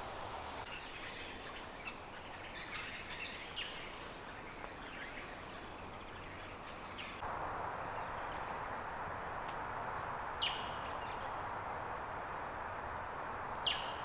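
Birds chirping in the bush: scattered short high calls in the first half and two sharper, louder chirps later on, over a steady hiss that gets louder about halfway through.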